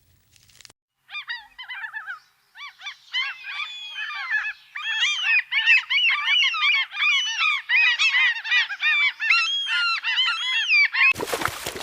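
A flock of geese honking, many short calls overlapping in a dense, continuous chorus. Near the end it cuts abruptly to a loud rushing noise.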